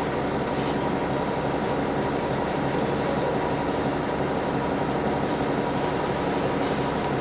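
NovaBus TL-40102A low-floor transit bus under way: steady engine and drivetrain noise with a constant high whine running through it.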